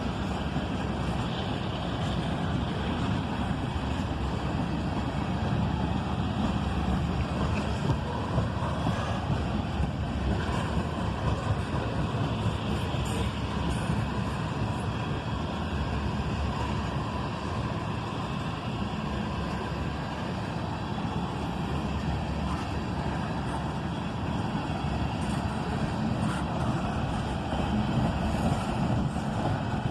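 Ethanol freight train rolling past: a steady rumble of steel wheels on the rails, with a few light clicks.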